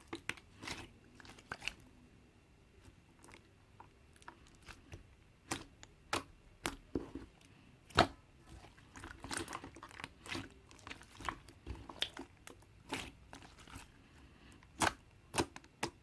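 Slime with toppings being squeezed and poked by hand, giving irregular crackles, pops and crunches, with one louder pop about eight seconds in.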